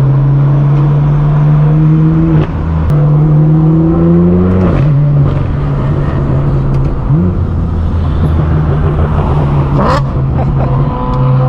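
Car engine and exhaust running loudly at low revs, climbing in pitch for about two seconds, then dropping off, with a quick blip of revs about halfway through.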